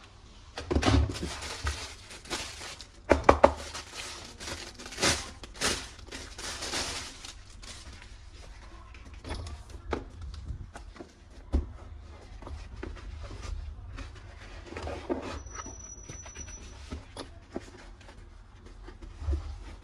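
Plastic toy guns and packaging being handled: a run of sharp clicks and knocks with some rustling, heaviest in the first several seconds, then lighter scattered taps. A brief high steady tone sounds about fifteen seconds in.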